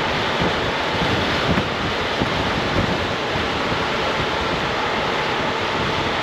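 Steady rushing wind noise on the microphone of a rider moving on a Honda ADV 350 scooter, with engine and road noise buried underneath.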